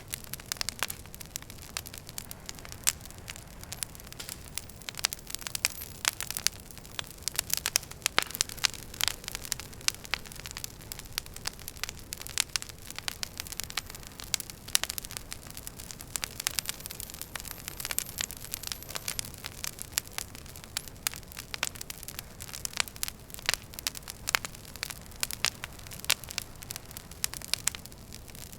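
Wood fire in a fireplace crackling, with irregular sharp pops and snaps over a steady low hiss of the flames. A faint high whistle slides down in pitch a little past the middle.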